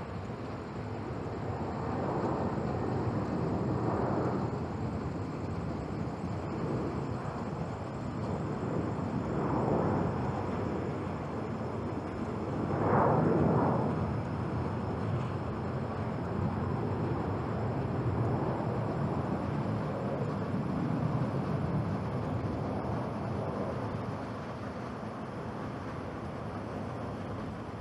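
Boeing 737-800's CFM56-7B jet engines at take-off thrust, a broad noise that swells and fades in waves and is loudest about halfway through.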